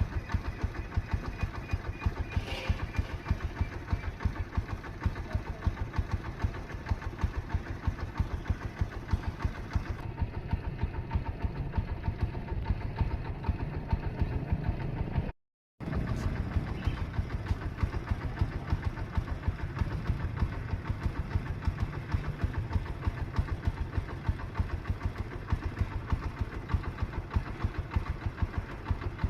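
An engine running steadily with a fast, even knocking beat, cut off briefly once about halfway through.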